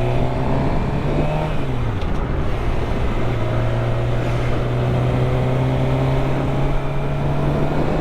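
2013 Suzuki GSX-R 600's inline-four engine pulling under way, its pitch climbing and then dropping once about a second and a half in as it shifts up, then holding nearly steady over road and wind noise.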